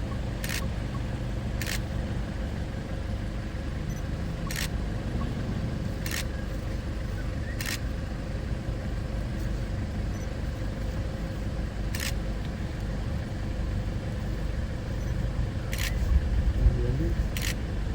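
Safari vehicle's engine running with a steady low rumble, with sharp clicks at uneven intervals of one to four seconds.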